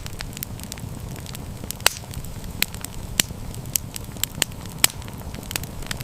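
Wood campfire crackling: irregular sharp pops and snaps over a low, steady rumble of burning.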